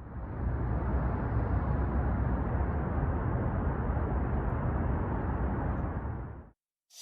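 Steady low rumbling outdoor noise with no distinct events. It fades in at the start and dies away shortly before the end.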